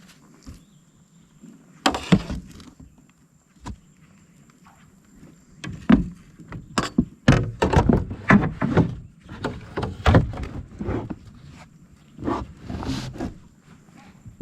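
Irregular knocks, thuds and rattles of hands and gear against a plastic fishing kayak, most of them in the middle of the stretch, with a faint steady high whine underneath.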